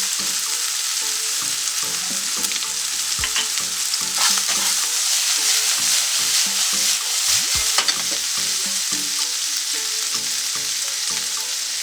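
Chicken strips and sliced garlic sizzling in hot olive oil in a pan, a steady high hiss, with a few clicks and scrapes as they are stirred.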